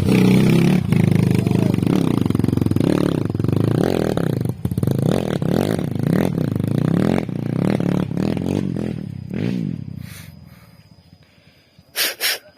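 Trail motorcycle engine revving hard over and over, its pitch rising and falling as it works, then fading away after about eight seconds. Two short loud bursts of noise come near the end.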